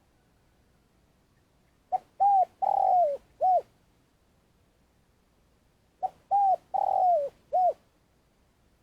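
Spotted dove cooing its calling song twice, about four seconds apart. Each phrase has four notes, and the third is the longest and drops in pitch at its end.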